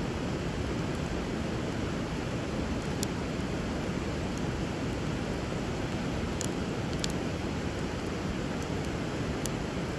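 Steady rush of flowing river water, with a handful of sharp pops from a burning wood fire over it.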